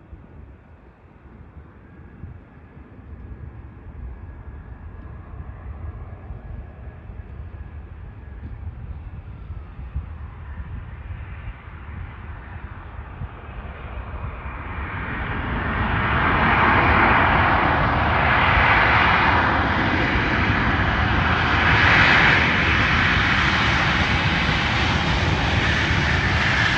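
Jet engines of a Boeing 737 on landing, at first faint and distant, then swelling over several seconds to a loud, steady jet rush about halfway through that holds to the end.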